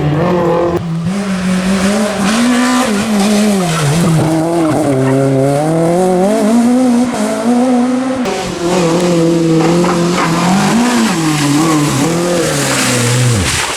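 Renault Clio rally car's four-cylinder engine, loud and hard-driven, its pitch rising and falling through the revs with held steady stretches, and tyres squealing and skidding on the stage. The engine note falls away sharply near the end.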